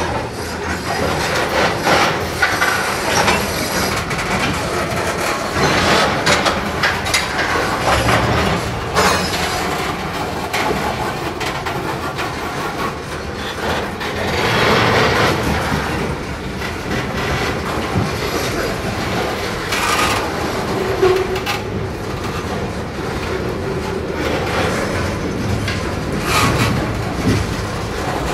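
CSX mixed manifest freight train's covered hoppers and tank cars rolling past close by, their steel wheels clattering and knocking irregularly over the track in a steady rumble.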